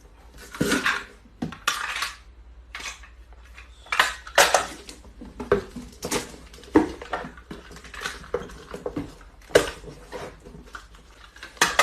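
Irregular clinking and clattering of hard objects knocking together, like dishes and cutlery, about a dozen separate knocks.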